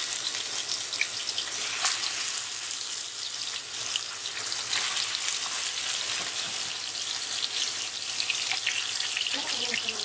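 Raw minced-beef kebabs sizzling steadily in hot oil in a nonstick frying pan, with light crackling and spitting. More kebabs are laid into the oil, and there are a couple of sharper ticks about two and four seconds in.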